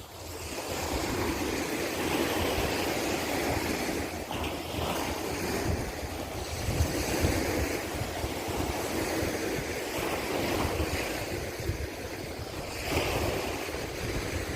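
Sea surf washing onto the beach in uneven swells, with wind buffeting the microphone.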